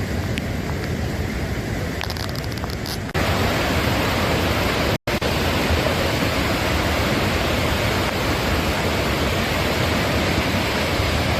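Flash floodwater rushing, a steady noisy rush of churning water. It jumps louder at an abrupt cut about three seconds in and drops out for an instant near five seconds.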